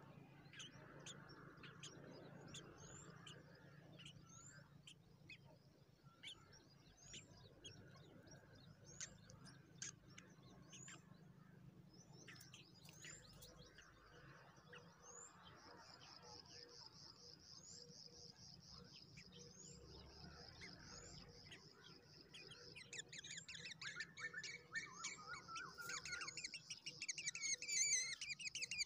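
Faint, short, high bird chirps repeating about once or twice a second, with a steady high whine joining about halfway. In the last few seconds the chirping turns rapid and louder: nestlings begging at the nest.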